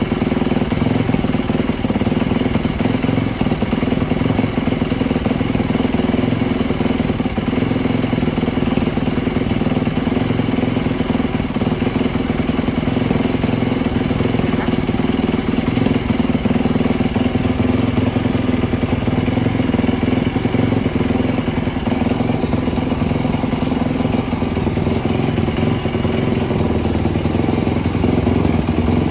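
Small motorcycle engine running steadily at a nearly constant pitch, with a slight change in its low tone near the end.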